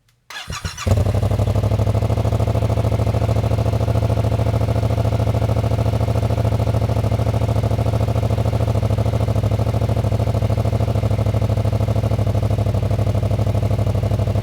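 2016 Yamaha FZ-07's parallel-twin engine starting about half a second in and catching almost at once, then idling steadily. It runs through the stock exhaust with its inner tailpipe drilled full of holes inside the shroud, a free mod for a louder sound.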